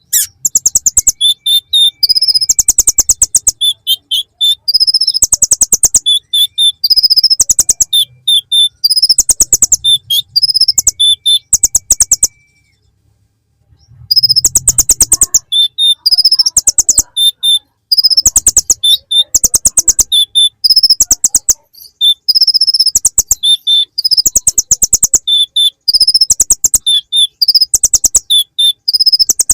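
Kolibri ninja (konin) sunbird singing a song full of mimicked bar-winged prinia (ciblek) phrases: loud, fast, high trills repeated again and again with short chirps between them. The song stops for about two seconds near the middle.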